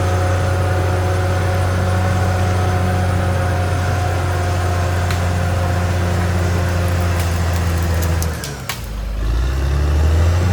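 CAT D6R XL bulldozer's diesel engine running steadily. About eight seconds in, its note sags lower and quieter for a moment, then climbs back up.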